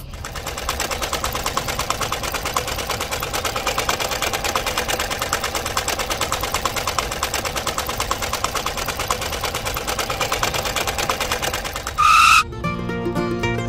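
Miniature walking tractor's engine sound, a rapid, even putt-putt chatter of about seven beats a second. It cuts off near the end with a short, loud, high beep.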